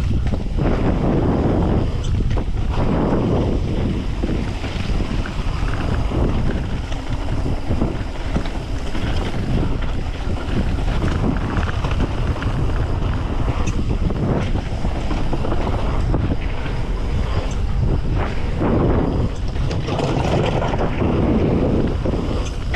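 Wind rushing over the microphone with a dense low rumble and swells in loudness, as from a camera carried on a mountain bike riding at speed.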